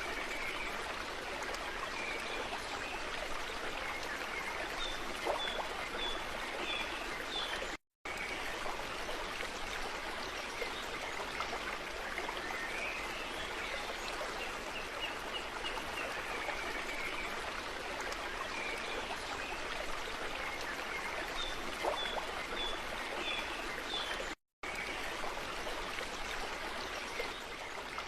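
Steady rush of flowing stream water, with small birds chirping short runs of high notes over it. The sound cuts out for a moment twice.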